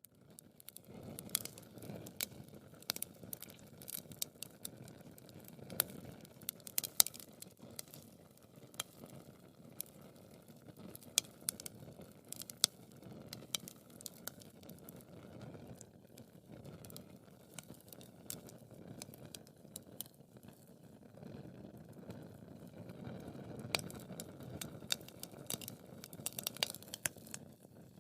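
Wood fire crackling: irregular sharp pops and snaps over a low, steady rush of burning logs.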